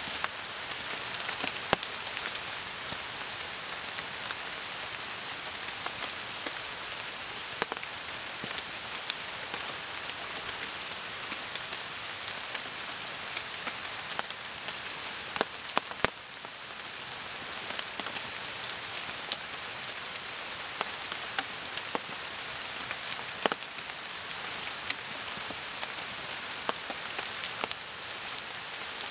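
Steady rain falling on a tarp and the surrounding rain forest, with a campfire crackling under it: scattered sharp pops and ticks over the even hiss of the rain.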